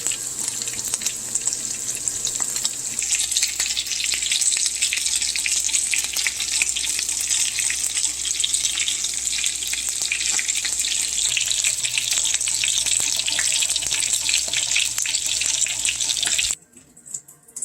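Breaded chicken frying in hot oil: a dense sizzle full of small crackles and pops that stops abruptly near the end.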